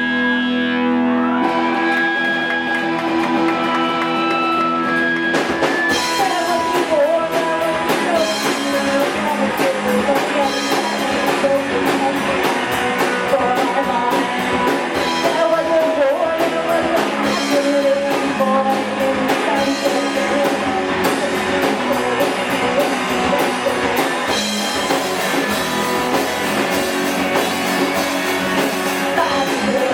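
Live rock-and-roll band playing, with electric guitar over held chords, and a drum kit coming in about five seconds in and keeping a steady beat.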